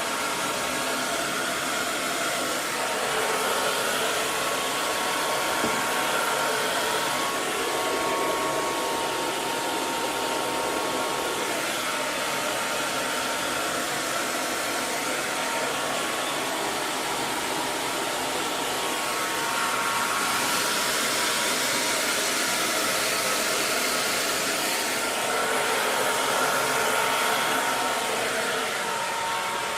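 Hair dryer running steadily: an even rush of blown air with a faint motor whine.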